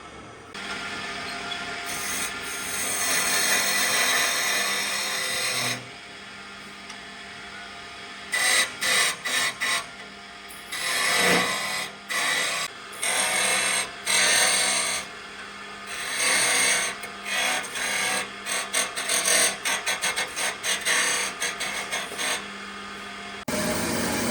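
A tool working wood: one steady run for about five seconds, then many short bursts in quick succession, stopping and starting.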